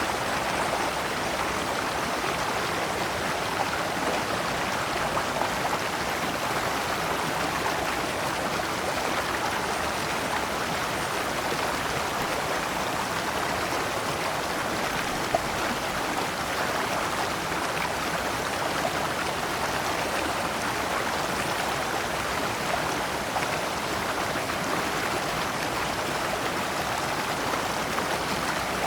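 Shallow rocky stream flowing over stones in small cascades: a steady rush and babble of water.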